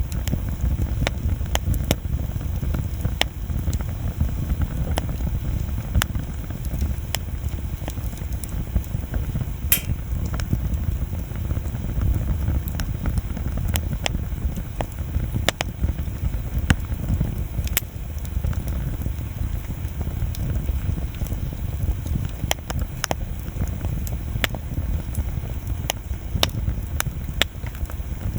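Wood campfire burning, crackling with irregular sharp pops over a steady low rumble; one louder pop about ten seconds in.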